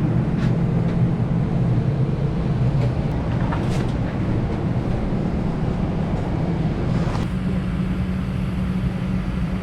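Steady low hum of an Airbus A319's cabin, with a few faint clicks. About seven seconds in, the higher part of the noise drops away and a steadier low tone remains.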